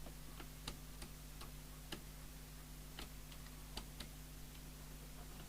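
Faint, irregular ticking clicks over a steady low mains hum. The CB radio's squelch, set to full, stays shut, so no receiver hiss or signal comes through.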